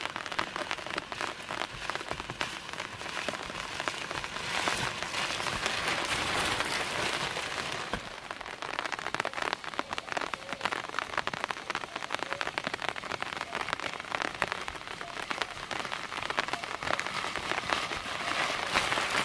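Heavy, continuous rain falling, a dense hiss made of countless close drop hits. It swells louder for a few seconds about five seconds in.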